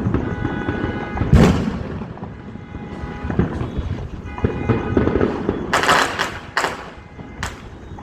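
Fireworks going off: a loud low bang about a second and a half in, then a quick cluster of sharp, crackling pops near the end, with music playing underneath.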